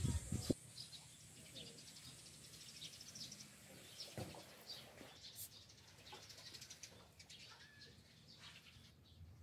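Faint, scattered bird chirps and short calls, with a few low bumps right at the start.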